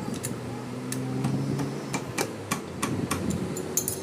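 Irregular metallic clicks and taps of hand tools working on motorcycle parts, over a low steady hum.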